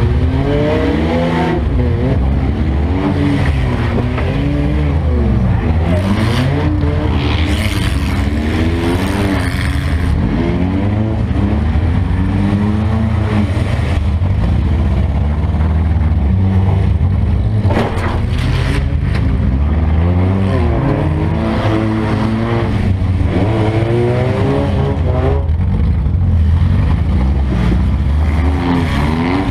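Demolition derby car's engine revving up and dropping back again and again, its pitch rising and falling every second or two, heard loud from inside the gutted cabin.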